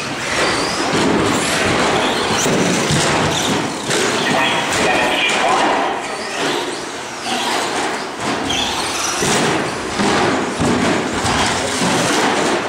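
Radio-controlled short-course trucks racing on an indoor track: motors whining up and down as they accelerate and brake, with tyre noise and occasional thumps from the trucks hitting the track or each other. Voices chatter in the background of a large echoing hall.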